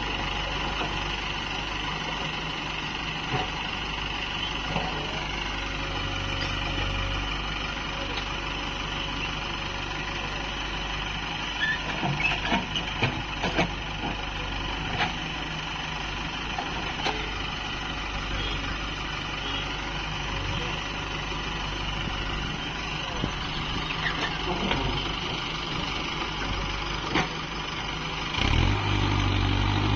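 Diesel engine running steadily, with a cluster of sharp knocks partway through. A louder, deeper engine note comes in near the end.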